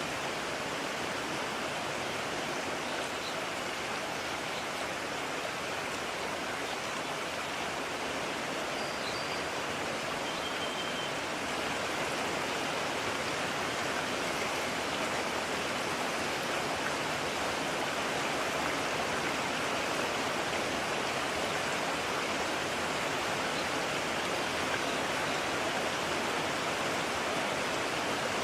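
A mountain stream's water rushing steadily over rocks, a continuous even hiss, slightly louder from about midway.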